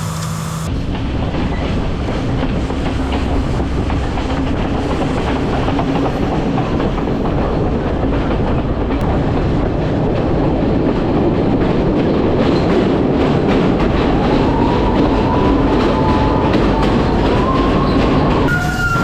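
Passenger train running, its wheels clattering steadily over the rails. In the last few seconds a thin, wavering squeal rises from the wheels.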